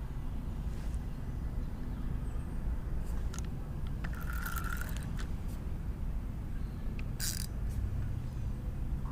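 Spinning reel being cranked while fighting a hooked blue catfish: mechanical whirring and clicking over a steady low rumble, with two short brighter bursts about four and seven seconds in.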